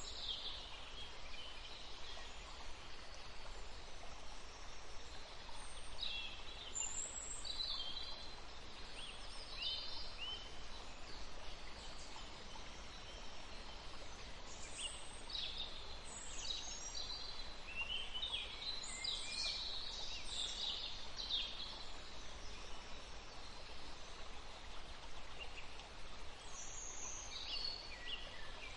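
Several small birds chirping and singing in short high trills and chips, coming in clusters with a lull about three quarters of the way through, over a steady background hiss.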